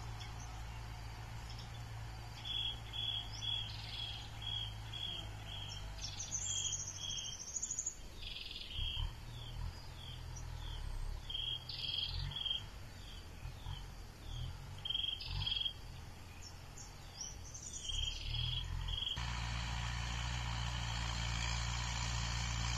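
A bird calls in repeated runs of short, high notes, about four a second, with a brief warbling trill about seven seconds in. Under it runs the low, steady hum of a distant tractor engine, and a steady hiss rises near the end.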